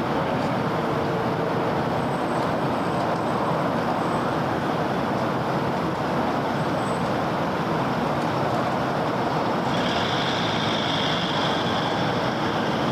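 Steady city road-traffic noise: a continuous wash of passing cars, buses and trucks. A higher-pitched hiss joins near the end.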